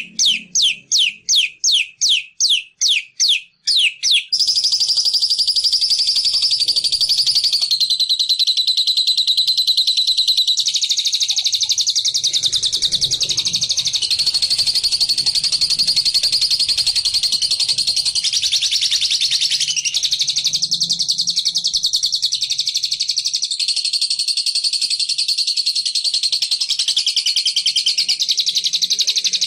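Songbird calls played as a trapping lure: about four sharp, falling, high notes a second for the first four seconds, then an unbroken, very rapid high trill that shifts pitch in steps.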